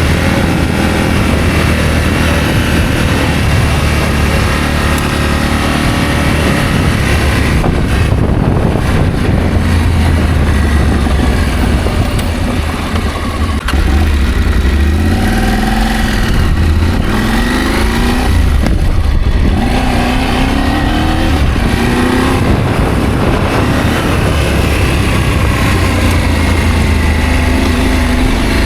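Adventure motorcycle engine under way, its pitch rising and falling repeatedly as the throttle opens and closes, over a steady low rumble of riding noise.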